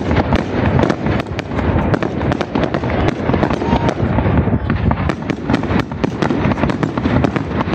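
Fireworks display: aerial shells bursting in white crackling stars, a dense, unbroken run of rapid pops and cracks over a continuous low rumble of booms.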